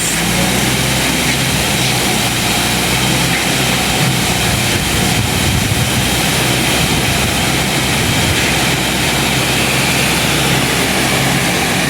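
Dump truck offloading a load of half-inch crushed-stone ballast: the engine runs steadily while the stone pours off the bed in an even, continuous rush.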